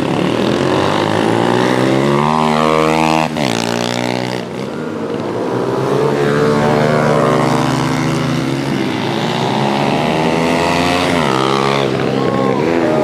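Small pit bike engines racing: several engine notes overlap, each rising as the rider accelerates and dropping sharply at shifts or as the bike passes, with one steep fall in pitch about three and a half seconds in.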